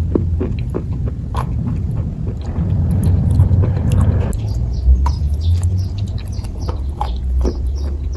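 Close-up chewing of soft kaju katli (cashew fudge), with frequent small wet mouth clicks over a low rumble.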